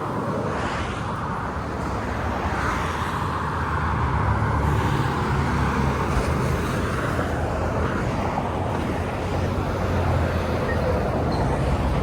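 Steady road-vehicle noise: a low engine hum under a wash of tyre and road noise that slowly grows louder.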